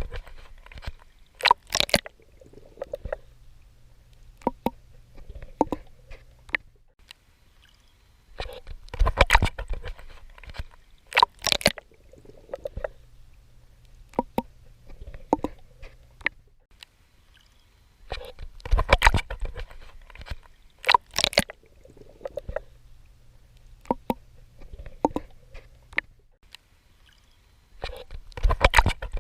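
Swimmer's strokes splashing in ocean water, coming as a cluster of sharp splashes about every ten seconds. Between the clusters there is softer gurgling over a steady low hum.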